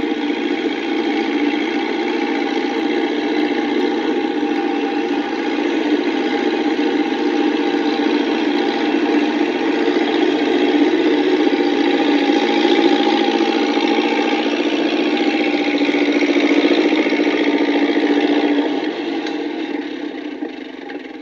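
Massey Ferguson tractor engine running steadily, then fading away near the end as the tractor drives off.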